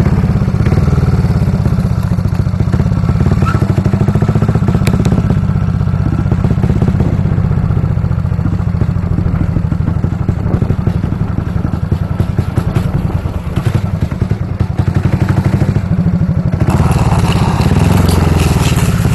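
Speedway motorcycle's single-cylinder engine running at a steady rapid beat, heard from on the bike as it rides around the dirt track. About three-quarters of the way through, a rush of higher noise joins the engine.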